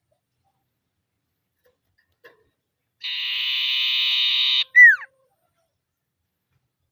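Common iora giving its harsh, buzzing trill call (ngetir) to call out a rival: about three seconds in, one trill that grows louder over about a second and a half, ending in a short, loud whistle that slides down in pitch.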